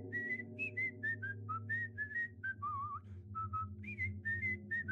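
A person whistling a slow, eerie tune in short separate notes, about four a second, some wavering in pitch, over a low steady drone.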